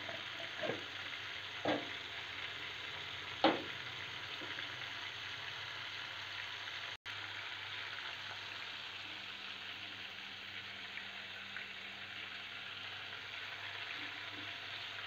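Prawns sizzling steadily in hot oil in a non-stick kadai, with a few knocks of a metal spoon against the pan in the first few seconds, the loudest about three and a half seconds in.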